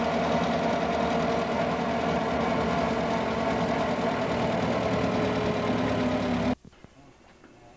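Old car's engine running at a steady speed, heard from on board. It cuts off abruptly about six and a half seconds in, leaving faint background sound.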